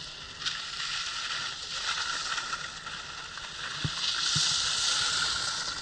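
Skis sliding and scraping over snow: a steady hiss that swells about four seconds in.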